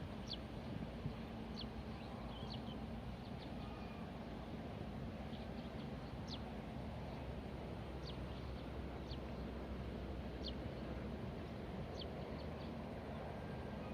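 Small birds calling with short, high, falling chirps about once a second, over a steady low outdoor background hum.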